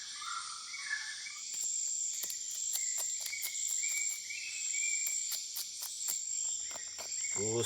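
Grey-cowled wood rail (saracura-três-potes) singing: repeated phrases of stepped whistled notes, over a steady chorus of insects. A run of sharp ticks sounds through the middle.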